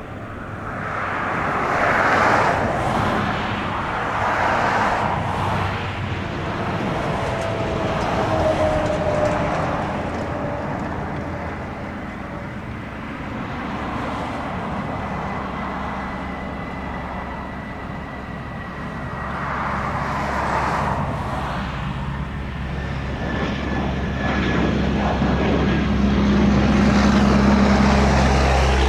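Jet airliner engines heard passing, a steady rushing noise that swells and fades, with faint whining tones slowly falling in pitch and a low rumble building near the end.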